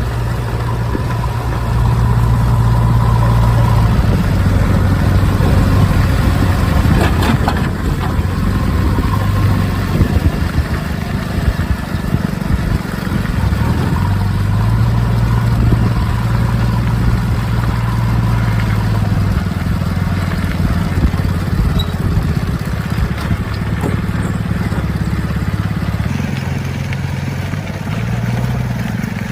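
JCB 3DX backhoe loader's diesel engine working under load, its engine speed rising and falling several times as it digs and loads, with a few short clanks about seven and ten seconds in.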